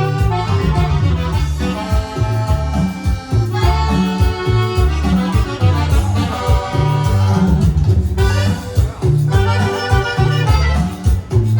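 Accordion-led Latin band music with a steady, evenly repeating bass line.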